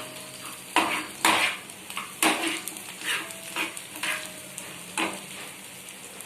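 Onions and green chillies frying in hot oil in a kadai, sizzling steadily, while a spoon stirs them, scraping and knocking against the pan about once a second.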